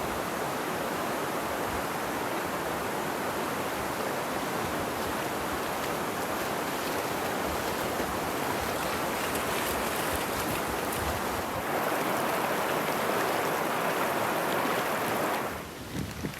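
Fast-flowing mountain river running high, a steady rush of water that gets louder about twelve seconds in and cuts off abruptly near the end.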